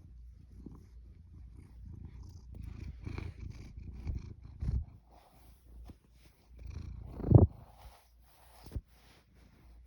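Domestic cat purring close up while being stroked, a low pulsing rumble that swells and fades. A loud thump about two-thirds of the way through and a smaller knock near the end break in over it.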